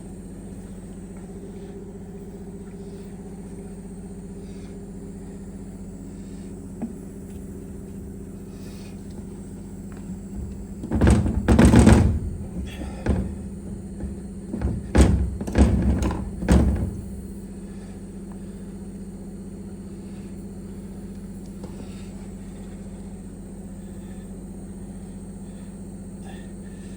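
A steady low hum, with a cluster of heavy knocks and thuds about halfway through, lasting several seconds, as parts are handled during the steering column overhaul.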